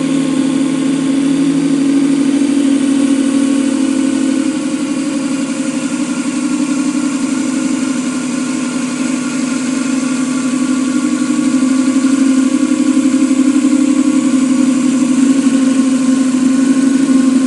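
Miniature 45 cc model V8 engine running steadily at a fast idle, a little louder from about two-thirds of the way through.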